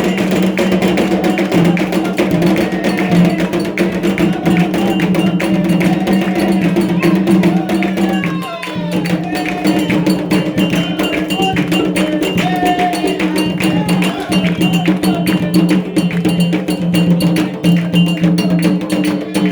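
Afro-Brazilian Candomblé ritual percussion: a fast, dense rhythm of drums with a struck metal bell clanging over it, briefly thinning about eight and a half seconds in.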